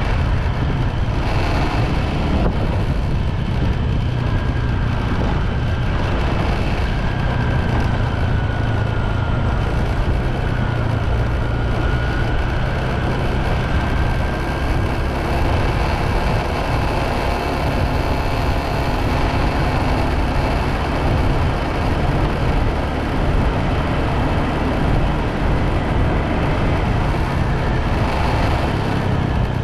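Steady motorbike riding noise: the engine running with road and wind noise heavy in the low end. A faint wavering whine comes and goes during the first half.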